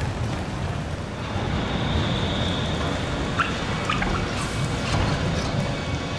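A train rumbling through a station, with a high squeal held for about two seconds starting just after the first second, then a few sharp clicks.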